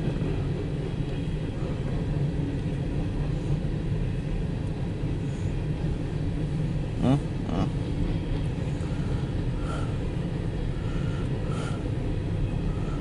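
Empty CSX coal train's hopper cars rolling past, a steady low rumble heard from inside a car. Two short squeals about seven seconds in.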